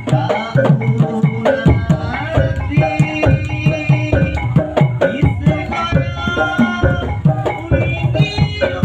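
Topeng Ireng dance music: hand drums beating a quick, steady rhythm, with held melodic notes above.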